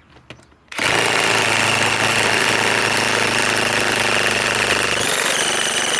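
DeWalt DCF961 cordless high-torque impact wrench hammering continuously to remove a fastener, starting about a second in after a few light clicks. Its sound shifts near the end.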